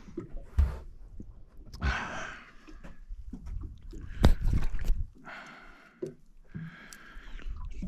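Fishing tackle being handled aboard a boat: a few knocks, the loudest about four seconds in, with short rushing noises in between.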